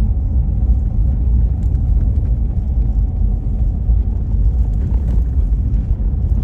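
Steady deep rumble of a car driving, road and engine noise, with a few faint ticks.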